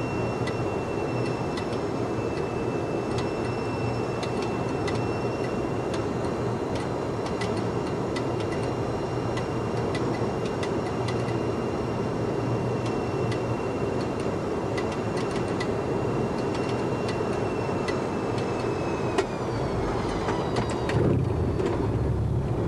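Boeing 737-200 heard from the cockpit: a steady rumble of its Pratt & Whitney JT8D engines and the airflow, with a thin high whine that falls in pitch about 19 seconds in as the engines spool down. A few knocks and a deeper rumble follow near the end.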